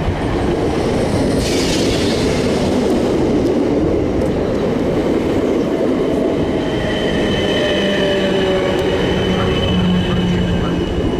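South Western Railway electric multiple unit drawing into the platform and slowing, with loud wheel and running noise on the rails. From about six seconds in a thin, high, steady squeal joins in as the brakes bite, with a low steady hum underneath.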